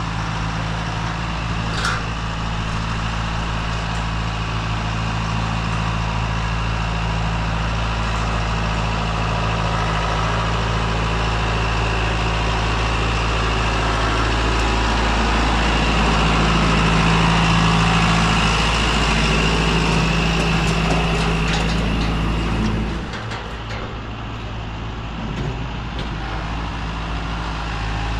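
Diesel engine of earth-moving farm equipment running steadily under load while digging and moving dirt, working a little harder in the middle and easing off suddenly about 23 seconds in.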